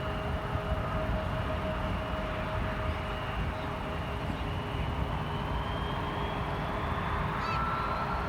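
Steady jet engine noise from a Boeing 777-300 on approach, with a faint whine that slowly rises in pitch. A brief high chirp comes near the end.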